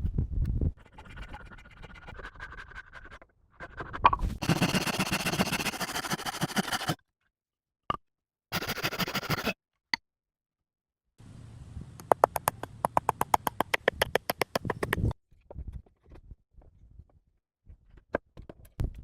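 Scraping and rasping work sounds in short takes broken by abrupt cuts to silence. Near the middle there is a run of quick, even strokes at about seven a second.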